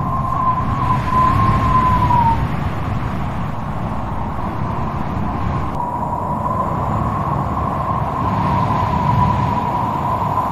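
Strong wind blowing with a low, steady rumble and a thin whistling howl that wavers in pitch, dying away about two seconds in and returning a little past halfway.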